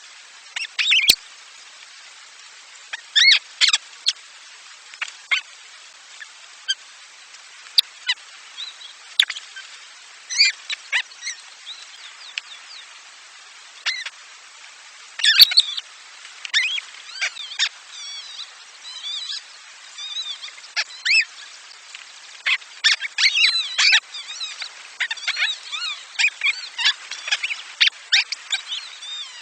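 Nestling birds chirping in short high bursts, scattered at first and growing thicker and nearly continuous in the last third, over a steady faint hiss.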